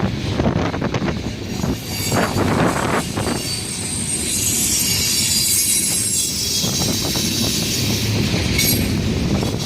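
Train passing close by: a steady rumble with wheels clacking over rail joints, and a high-pitched wheel squeal from about four seconds in until near the end.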